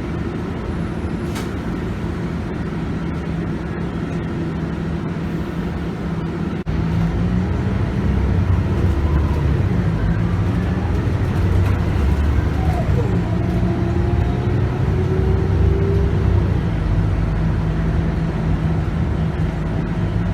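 Scania K280UB bus's 9.3-litre five-cylinder diesel engine and ZF Ecomat automatic gearbox running, heard from on board while the bus is driving. About a third of the way in the sound suddenly becomes louder and stays louder.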